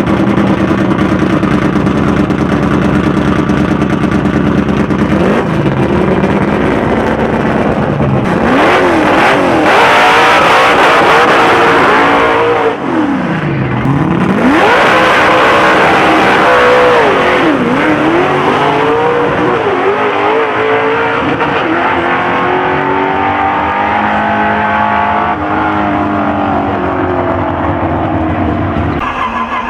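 Naturally aspirated Ford Maverick V8 on two four-barrel carburettors, running loud and steady at first, then revved hard, its pitch climbing and dropping sharply several times. It finishes with one long, slow rise and fall in pitch.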